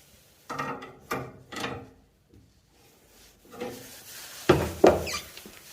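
Wrench and metal fittings being handled while a heating-manifold zone valve is taken apart: a series of short scraping knocks, three in quick succession, then a pause, then more, with the two loudest near the end.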